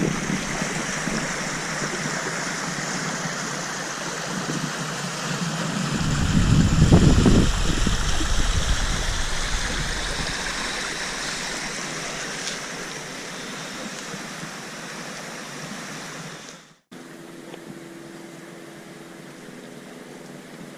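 Water rushing steadily in a stream, with wind buffeting the microphone, heaviest about six to eight seconds in. Near the end a sudden cut leaves a quieter steady hiss with a faint low hum.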